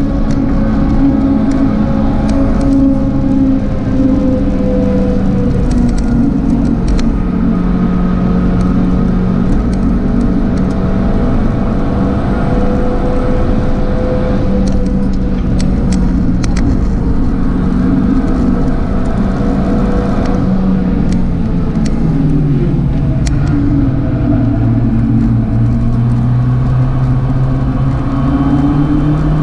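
Tuned Abarth 595's turbocharged 1.4-litre four-cylinder engine running hard at high revs, its pitch holding high with slow wavering. About 21 seconds in the revs fall away sharply, then climb again as the car accelerates.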